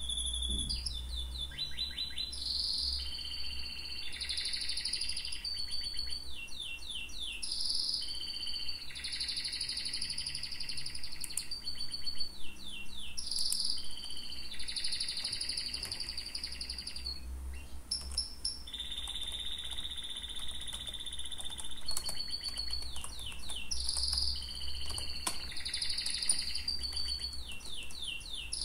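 Birds chirping in repeated phrases of long high notes and quick runs of short notes, over a low steady hum.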